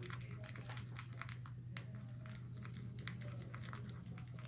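Slime mixture being stirred in a bowl: faint, irregular small clicks and scrapes of the utensil.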